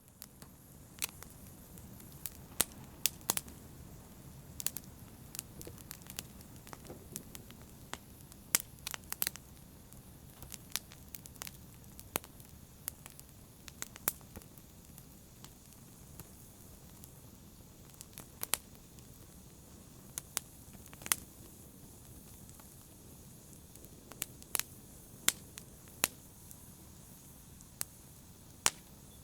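Wood fire burning in a fireplace: a steady low rustle of flames with irregular, sharp crackles and pops.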